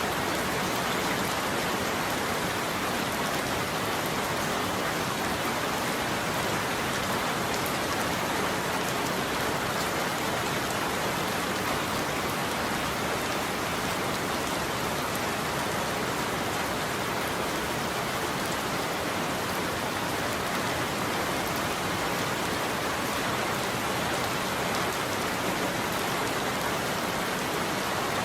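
Steady heavy rain: an even, unbroken hiss of falling drops, with no thunder.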